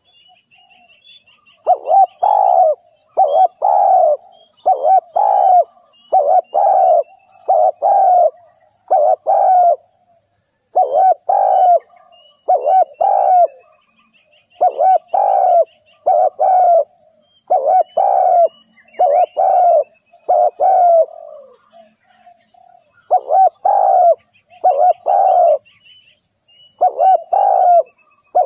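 Spotted dove cooing: repeated rounds of two or three deep coos, starting about two seconds in. This is a decoy dove's call used to lure wild doves. Faint chirps of small birds and a steady high hiss lie behind it.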